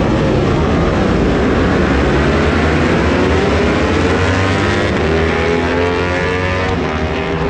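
Racing motorcycle engines at high revs, several overlapping, their pitch rising and falling as the bikes accelerate and shift.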